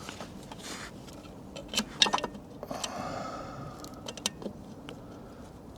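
Light metallic clinks and taps of bolts and hand tools being handled, densest about two seconds in, with a short rasping noise around three seconds.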